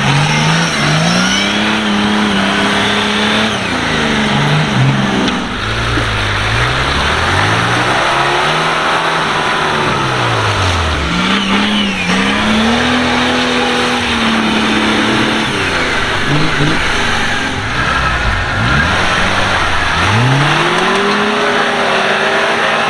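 A 4x4's engine revving up and down again and again, in rising and falling surges a few seconds apart, over a constant rushing noise.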